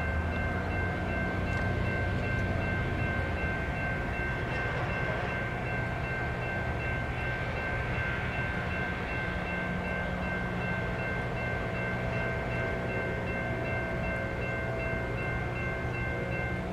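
A CSX freight locomotive's air horn sounds one long, steady chord of several notes, held for about seventeen seconds before it cuts off. Under it runs the low rumble of the diesel locomotive and the moving train.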